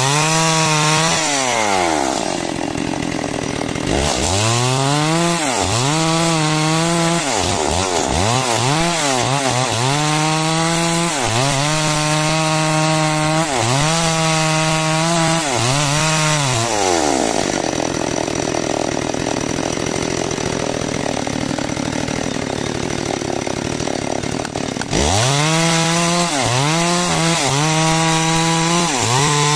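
Two-stroke chainsaw sawing a timber beam along its length. The engine pitch rises and falls over and over, once every second or two. In the middle comes a stretch of about seven seconds of steadier, rougher sound, and the rising and falling returns near the end.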